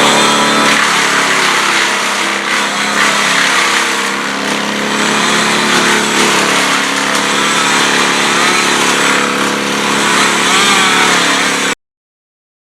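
Engine of tree-removal equipment running loudly, its pitch wavering up and down as it revs. It cuts off abruptly about a second before the end.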